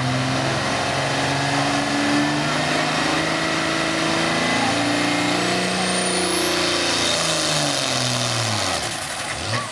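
Turbocharged Case IH pulling tractor's diesel engine running hard under load on a pull, its pitch wavering and sagging, with a thin high whine climbing in pitch past the middle. Near the end the engine pitch falls away sharply as the revs drop.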